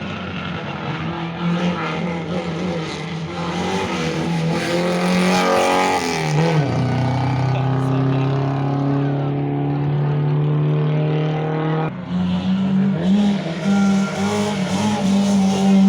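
Historic rally car engine running loud. Its pitch wavers and falls about six seconds in, holds steady, breaks off briefly about twelve seconds in, then carries on.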